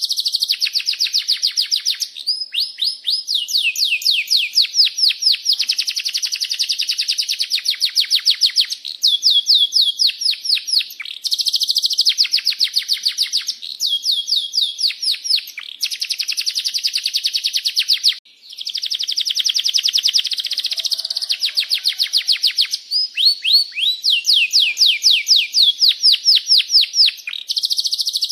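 Domestic canary singing continuously in long rolling trills: rapid runs of high, repeated chirping notes, the phrase changing every second or two, with a brief break about eighteen seconds in.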